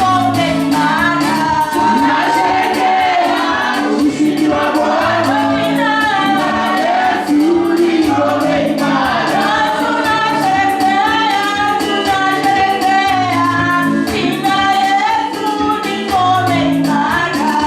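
Gospel worship music: voices singing a melody together over a steady beat and bass line.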